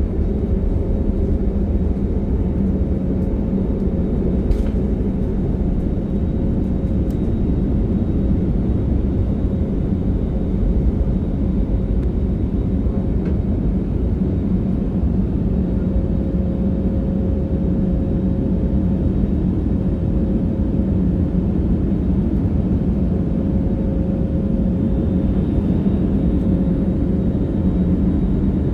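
Steady low rumble inside a jet airliner's cabin, with a faint steady hum over it.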